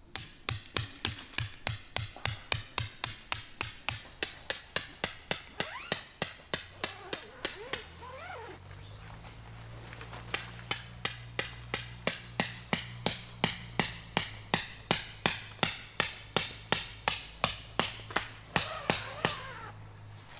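Steady, rapid hammering, about three blows a second, each with a bright metallic ring. It pauses briefly about eight seconds in and then resumes. A low steady hum runs under the second half.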